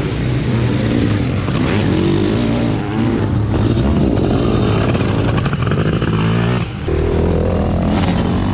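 700cc two-stroke Zabel sidecar motocross engines revving hard, the pitch rising and falling as the outfits accelerate and back off, with a brief drop about two-thirds of the way through.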